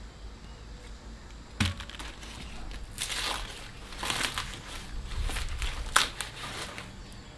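Dry corn husks and leaves crinkling and tearing in handled bursts, with a sharp snap about a second and a half in and a louder crack near the end, as ears of corn are picked and husked.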